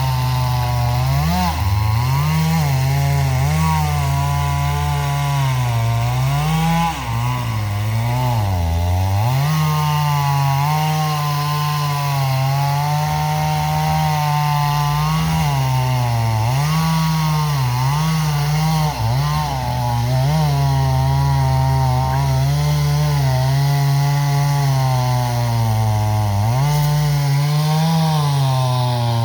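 An engine running hard with its revs rising and falling every second or two.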